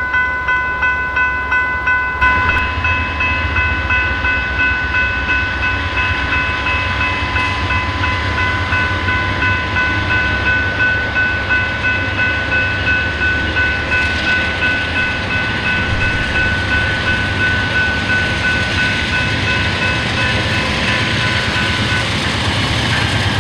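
Amtrak Southwest Chief passenger train pulling into a station with a steady rumble of engines and wheels. Over it a bell rings repeatedly, a little under twice a second, and stops near the end.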